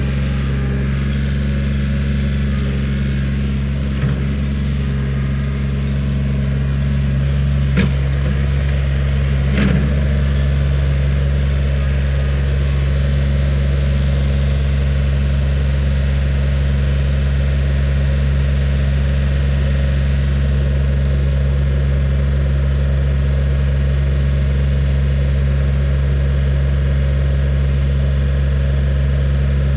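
Kioti 4010 tractor's diesel engine running steadily, with a few short knocks about four, eight and ten seconds in.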